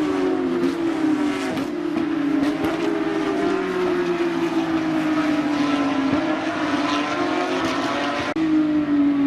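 Porsche GT3 Cup race cars at speed, their 3.8-litre naturally aspirated flat-six engines at high revs. Several engine notes overlap, the loudest slowly falling in pitch, and the sound changes abruptly a little after eight seconds.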